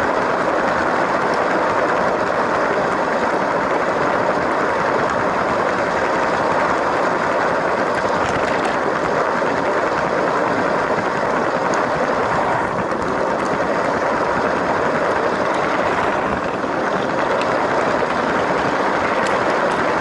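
LEGO toy train running along plastic track, heard close up: a steady whir from its small electric motor and gears, mixed with the rolling of its wheels on the rails.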